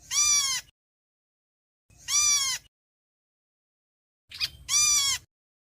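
Héc xoan bird giving its flock-calling cry three times, about two seconds apart, each call rising then falling in pitch. A short extra note comes just before the third call.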